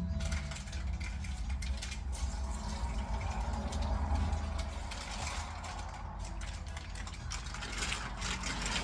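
Water being poured into a cooking pot, with a rushing that swells between about two and five seconds in, over a steady low hum and a few light clinks.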